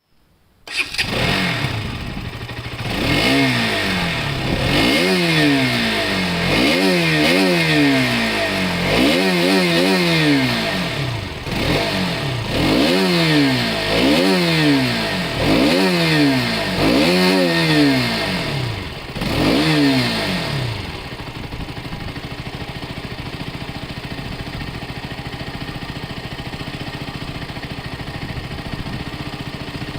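Motorcycle engine starting about a second in, then revved over and over, a dozen or so quick blips that rise and fall in pitch. It then settles to a steady idle for the last third.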